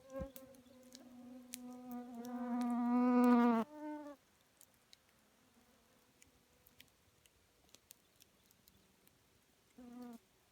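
A flying insect buzzing close to the microphone, growing louder for about three and a half seconds and then cutting off suddenly, with short buzzes again about four seconds in and near the end. A wood campfire crackles with scattered sharp pops throughout.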